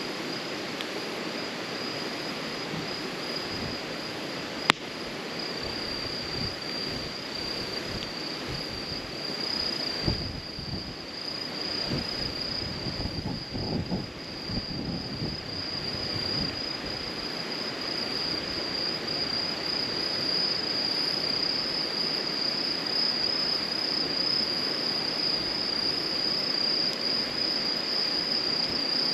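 Crickets chirping in a steady high trill, over the crackle of a burning campfire. A single sharp pop comes about five seconds in.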